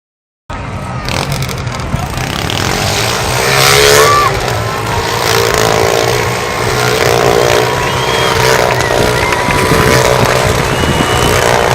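Motorcycle engines running inside a Globe of Death steel-mesh sphere, with the revs rising and falling. The sound starts abruptly about half a second in and is loudest around four seconds in.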